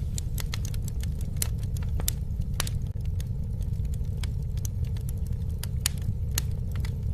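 Campfire burning, with irregular sharp crackles and pops from the burning wood over a steady low rumble of the flames.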